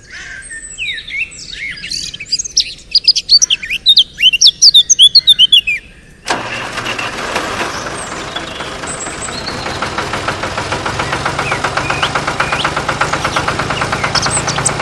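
Birds chirping for about six seconds, then a small motor starts abruptly and runs with a fast, even ticking whirr that grows steadily louder.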